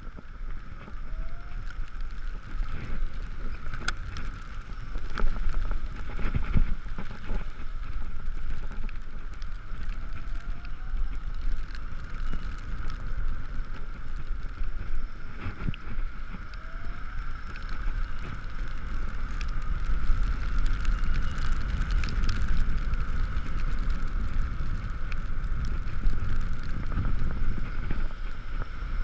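Riding sound of an Ekoway ML5000 electric scooter in the rain: wind buffeting the camera microphone and a low road rumble, under a steady high whine, with scattered knocks from bumps.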